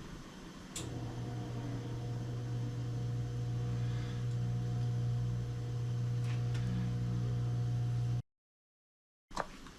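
Wheel balancer spinning a motorcycle wheel: a click about a second in, then a steady low motor hum with a faint whine above it. The hum cuts off suddenly near the end and a few sharp clicks follow.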